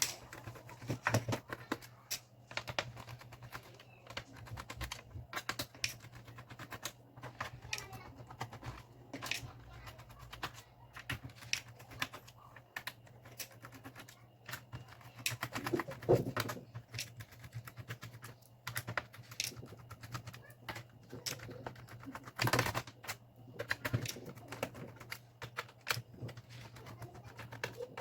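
Irregular clicks, taps and small knocks of handling a laptop as it is taken apart, tools and plastic casing, with a few louder clusters of knocks; a steady low hum runs underneath.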